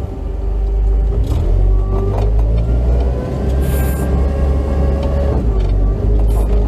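Off-road vehicle engine running loudly under load, its pitch rising and settling partway through.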